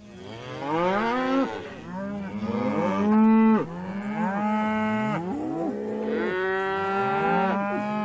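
Cattle mooing: several long, drawn-out moos one after another, some overlapping, with the pitch swooping up and down within each call.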